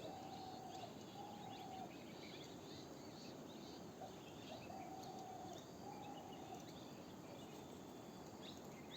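Ghughuti (dove) cooing faintly in pairs of even, held notes, two pairs in all, with small birds chirping now and then.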